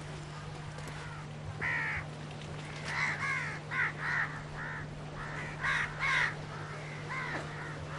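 Crows cawing repeatedly, harsh calls coming in short groups of two or three, over a steady low hum.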